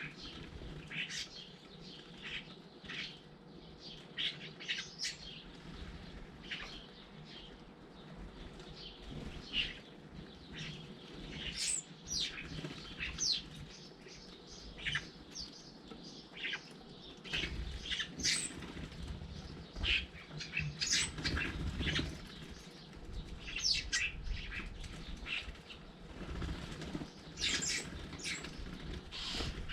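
Garden birds at a feeder: many short, sharp chirps and calls throughout, with flapping wings and low rumbling bumps close to the microphone, heavier in the second half.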